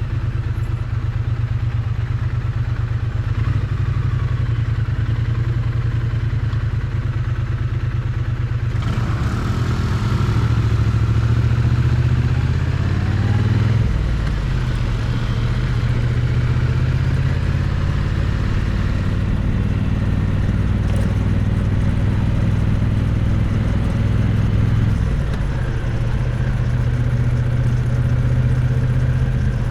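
Triumph Bonneville T100's parallel-twin engine running, heard close to its exhaust. It is steady at first; about nine seconds in a broad rush of wind and road noise joins. The engine note shifts around fourteen seconds and again around twenty-five seconds.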